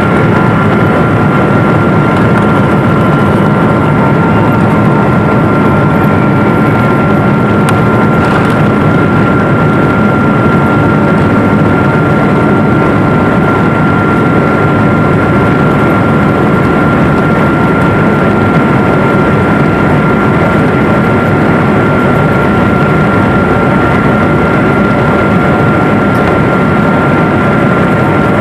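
Jet airliner's engines and airflow heard from inside the passenger cabin in flight: a loud, steady rushing noise with a constant high whine on top.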